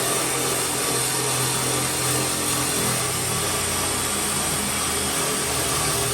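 Electric power tool spinning a wire brush against rusty steel to scrub off surface rust. It makes a continuous hiss while the motor's pitch wanders down and back up as it loads against the metal.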